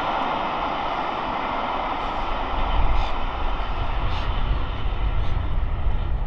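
Passenger coaches of a steam-hauled train rolling past, the steady rush of wheels on rail fading as the last coaches go by. A low, gusting rumble of wind on the microphone grows as the train sound dies away.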